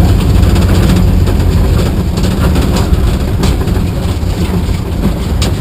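A truck driving: a loud, steady low rumble with rattles and knocks now and then.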